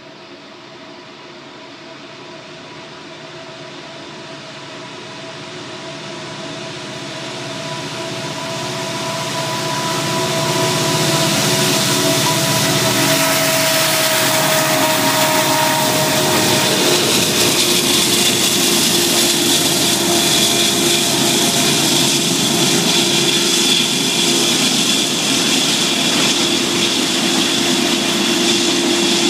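Three Norfolk Southern diesel locomotives hauling a loaded autorack train approach and pass at speed, growing steadily louder over the first ten seconds, with a steady whine that drops slightly in pitch as the locomotives go by. Then the autorack cars roll past with a steady rush of wheels on rail.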